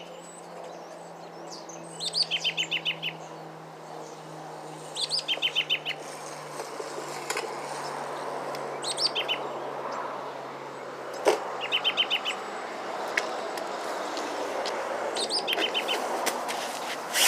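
A songbird repeating the same short song phrase about five times, roughly every three seconds: a few high notes followed by a quick run of six or so lower notes. A faint low hum and a steady background rush lie underneath.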